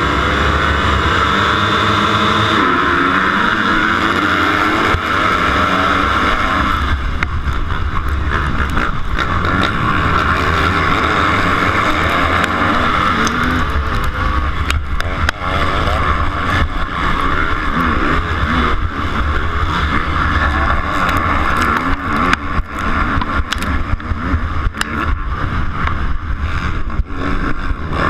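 250cc motocross bike engines running at racing revs, rising and falling in pitch, heard through a GoPro with wind on the microphone. From about seven seconds in there are many short knocks and rattles.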